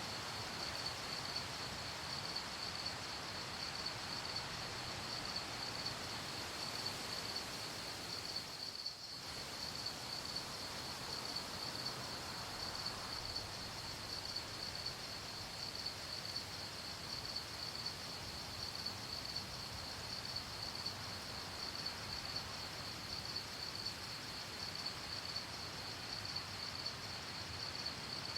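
Crickets chirping in a steady, fast-pulsing high trill over a faint background hiss; the whole sound dips briefly about nine seconds in.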